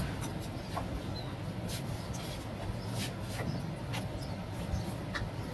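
Scattered light clicks and taps from handling small tools and a phone on a repair bench, over a steady low background rumble.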